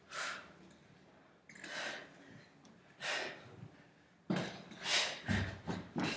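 Breathy puffs of air like hard breaths, spaced about a second and a half apart, then coming faster with a few dull thumps in the last two seconds.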